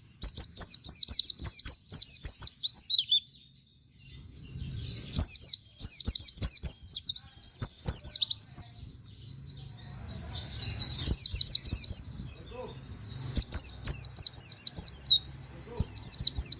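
White-eye (pleci) singing its fast 'nembak' song: high, rapid bursts of quick falling 'wit wit' notes, several bursts broken by short pauses. A few soft clicks come in between.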